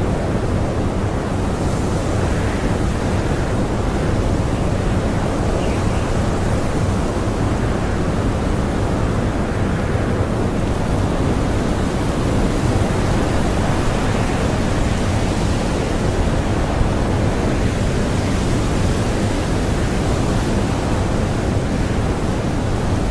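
Strong blizzard wind blowing steadily, a dense rushing noise heaviest in the low end with little rise and fall.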